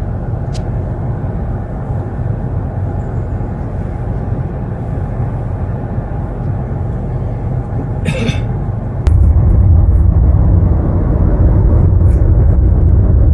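Steady low rumble of a car heard from inside the cabin: engine and road noise. It jumps abruptly louder and deeper about nine seconds in.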